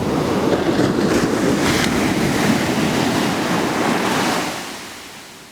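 Sea waves washing in, a steady hiss of surf with a few swells, fading out over the last second or so.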